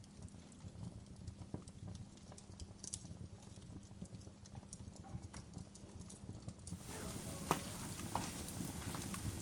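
Wood fire crackling: scattered sharp pops and snaps over a low rumble of burning. About seven seconds in the crackle turns brighter and louder.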